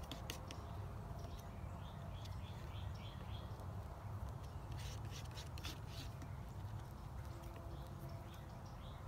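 Outdoor ambience: a bird singing a quick run of short repeated chirps about two seconds in, over a steady low rumble, with a few sharp clicks near the start and again around the middle.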